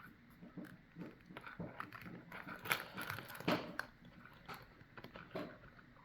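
Small clicks and crunchy scraping of plastic and rubber as a key fob's rubber button insert and plastic bezel are pressed and snapped back into place by hand, with two louder clicks around the middle.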